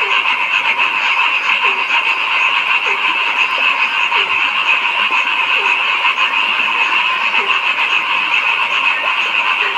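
A dense chorus of calling frogs: a steady high din of many callers, with a short, deeper croak repeating about once a second.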